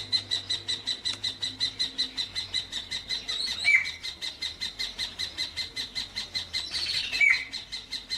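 A bird calling in a fast, steady series of high-pitched notes, about six a second, with two short falling chirps partway through.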